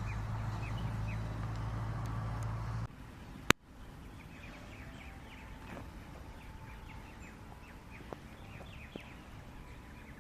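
Steady low engine hum of a vehicle that cuts off abruptly about three seconds in, followed by a single sharp click. Then birds chirp in many short high calls over a quieter background.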